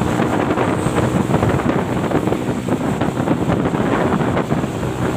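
Truck engine running under heavy wind noise on the microphone, with a faint steady low engine tone beneath a dense rushing noise.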